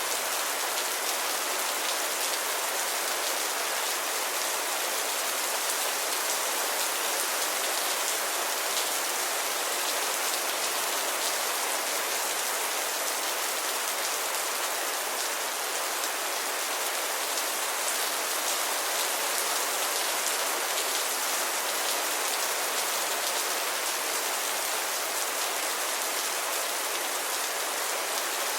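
Steady rain falling, a dense even hiss with a fine patter of individual drops striking a surface.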